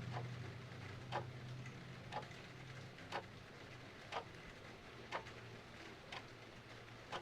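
A clock ticking steadily, about once a second, over the soft hiss of steady rain, with a faint low hum underneath.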